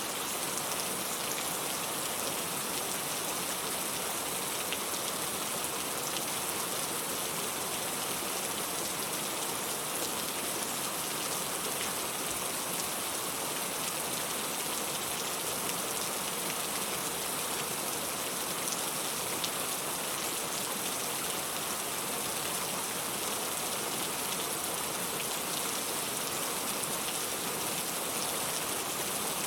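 Steady rainfall: an even hiss with a fine patter of drops, unchanging throughout.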